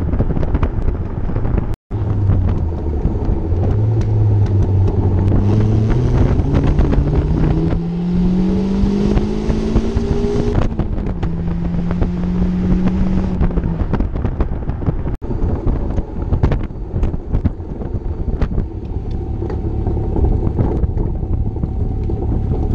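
Westfield kit car's 1.6 Ford Sigma four-cylinder engine accelerating hard, its pitch rising steadily through the revs, then holding before easing off, with wind noise from the open cockpit. The sound breaks off sharply twice, about two seconds in and again about fifteen seconds in.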